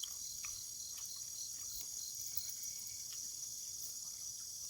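Steady high-pitched chorus of crickets and other night insects, one trilling continuously and another pulsing rapidly, with a few faint clicks.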